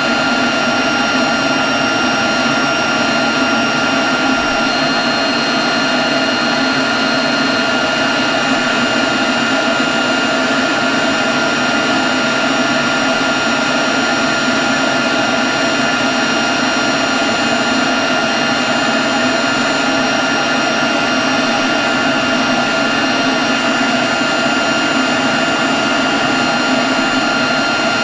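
Leaf blower running steadily at constant speed: a loud, even rush of air with a high fan whine over it.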